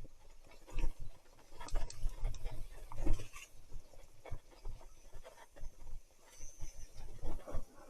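Irregular knocks and rattles over a low rumble on the microphone, typical of a mountain bike being ridden over rough ground.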